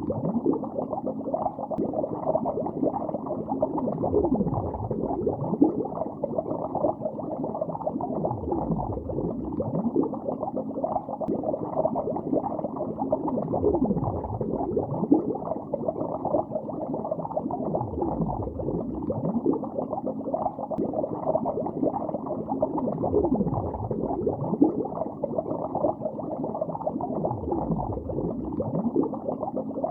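Dense, continuous underwater bubbling, muffled, with no highs above about 1.4 kHz. A slow sweeping swell recurs about every five seconds.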